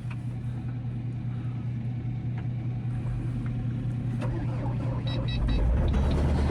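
Kubota SVL75-2 compact track loader's diesel engine idling cold to warm up. A few short high beeps come about five seconds in, and then the engine sounds louder and deeper.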